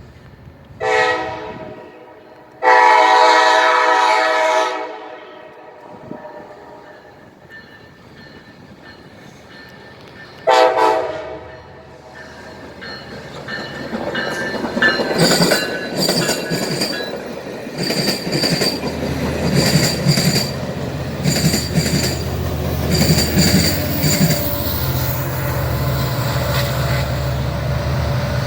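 Locomotive air horn sounding three chord blasts: short, long, then short after a pause. The train then passes close by, wheels clicking over the rail joints with a high metallic squeal, growing louder and staying loud.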